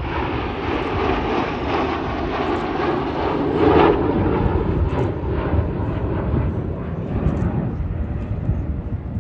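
Four BAE Hawk jet trainers in close diamond formation flying past, the jet roar of their turbofans swelling to a peak about four seconds in and then easing off.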